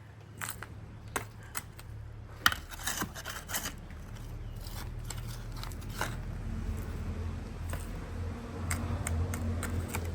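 Scattered scrapes and clicks of dirt and gravel being worked over a buried drain pipe, over a low steady hum.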